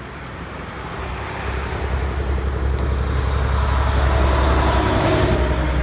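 Heavy truck's diesel engine rumbling as it approaches and passes, growing louder from about a second and a half in, with tyre and road noise on the street.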